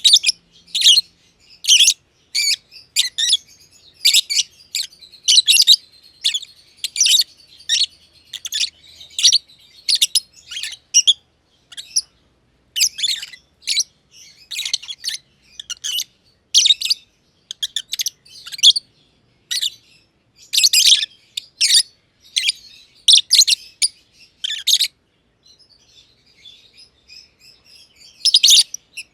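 Masked lovebirds chirping: rapid, shrill, high-pitched calls several times a second, thinning to faint twittering briefly near the end before starting again.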